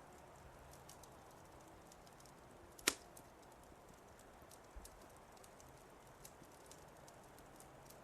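Wood fire crackling softly: sparse small pops and snaps, with one sharp, louder pop about three seconds in.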